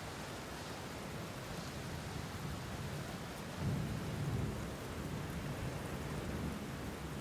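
Steady rainfall with a low roll of thunder that swells about halfway through and then fades back under the rain.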